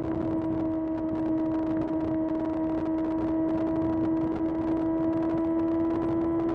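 Kawasaki ZX6R's inline-four engine holding steady revs while the bike is ridden, one even engine note with a rushing noise underneath.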